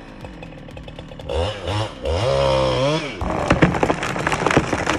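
Modified Husqvarna 395 two-stroke chainsaw revving: two short blips, then a longer rev that rises, holds and drops off about three seconds in. Right after it comes a dense run of sharp cracking and snapping from wood splitting.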